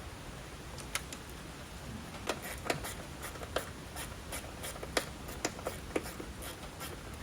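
A scattered series of light, irregular clicks and taps from hand work on the engine's wiring harness, its plastic clips and the bolts beneath, over a steady hiss.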